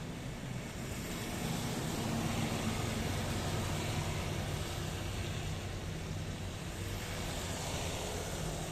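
Steady rain falling, an even hiss with a low hum underneath that swells a little in the first few seconds.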